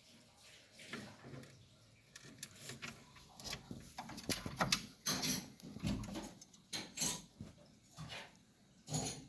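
African grey parrot making a string of short rasping, clicking sounds, sparse at first and coming every half second or so after about three seconds.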